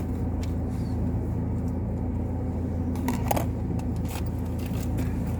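Car engine running, heard from inside the cabin: a steady low hum, with a few faint clicks about three and four seconds in.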